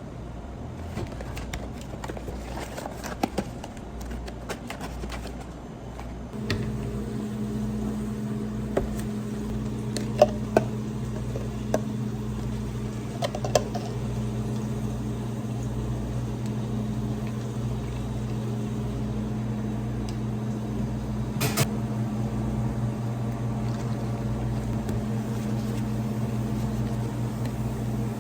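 Light clicks and knocks of handling. About six and a half seconds in, an electric motor switches on and hums steadily, with a few more clicks over it.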